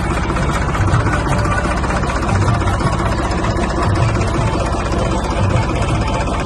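New Holland tractor's diesel engine running steadily, with a low throb swelling about once a second.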